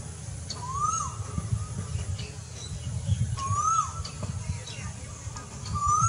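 A bird's whistled call, rising and then falling, repeated three times about two and a half seconds apart, with faint high chirps of other birds over a low rumble.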